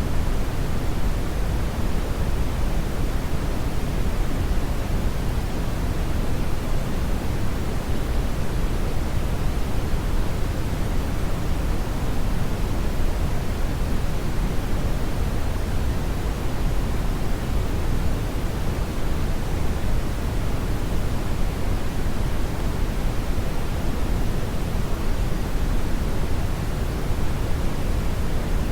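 Steady, loud brown noise: an even, unchanging hiss-like rumble, heaviest in the lows and thinning toward the highs.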